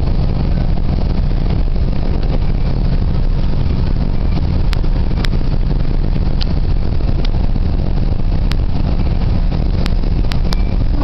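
Steady low rumble of a moving GO commuter train heard from inside a passenger coach: wheels running on the rails with a low drone underneath. Short sharp clicks come at uneven intervals through the second half.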